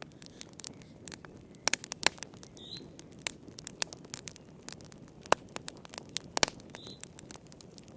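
Wood fire crackling in a fireplace: irregular sharp pops and snaps, some loud, over a soft steady hiss of the flames.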